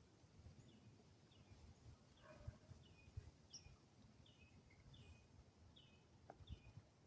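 Faint bird chirps: a steady series of short, downward-slurred notes, about one every three-quarters of a second, with an occasional higher note, over a soft low rumble.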